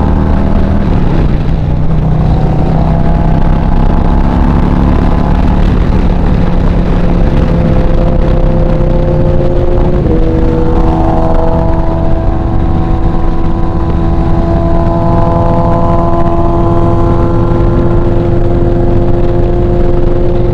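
Motorcycle engine running while riding, with wind rushing over the microphone. The engine note steps down in pitch about a second in and again about halfway through, then holds steady.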